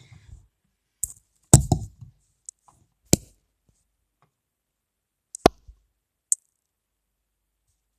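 A handful of short, scattered knocks and clicks, the loudest about one and a half seconds in: handling noise from toys or objects being moved about on a surface.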